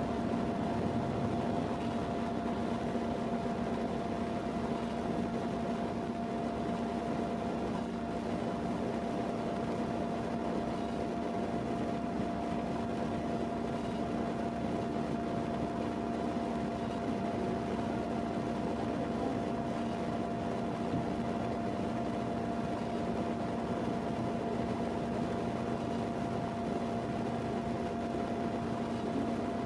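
Steady mechanical hum with a constant whining tone over a low drone, unchanging throughout.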